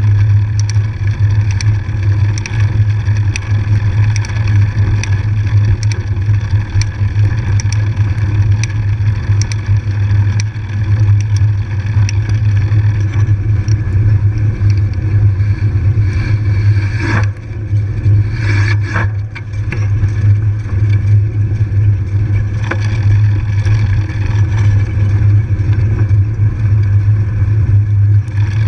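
Steady low drone of a ride along a trail, with frequent small clicks and rattles scattered through it.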